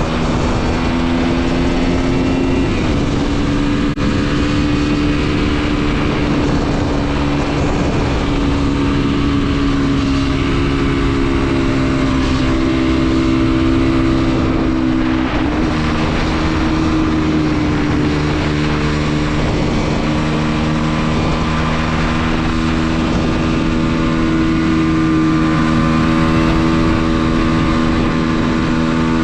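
Mondial SMX 125's single-cylinder four-stroke engine running under way at fairly steady revs, with brief shifts in pitch about three seconds in and again midway.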